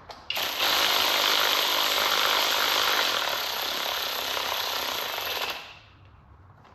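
A shop tool running steadily with a high-pitched, hissing whir for about five seconds, then stopping.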